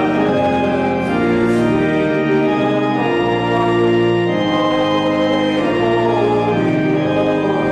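Organ playing slow music in held chords, one chord moving to the next about every second.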